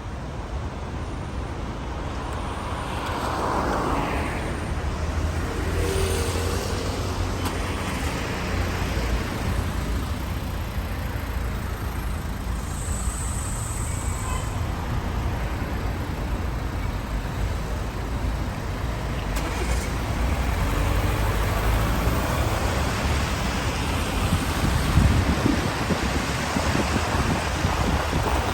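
Road traffic on rain-wet city streets: vehicles passing over a steady low rumble and the hiss of rain.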